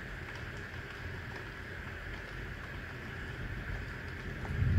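Steady rain falling over a city, with a low background rumble. Near the end a roll of thunder begins to build.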